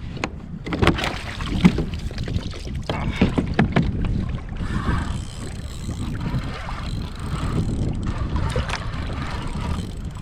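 Wind on the microphone and water noise around a fishing kayak at sea, with a run of sharp clicks and knocks in the first few seconds.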